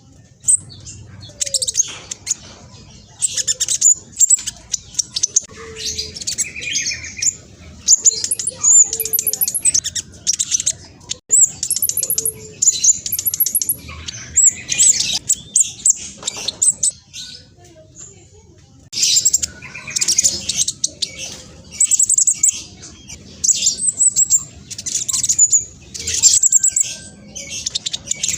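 Black sunbird (spotted 'trotol' form) singing a fast, high-pitched chattering song of rapid trilled phrases, with a pause of about two seconds a little past the middle.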